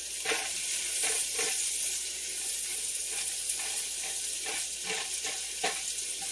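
Carrots and celery sizzling as they sauté in melted butter in a skillet, a steady hiss with a few short knocks from a rubber spatula stirring them.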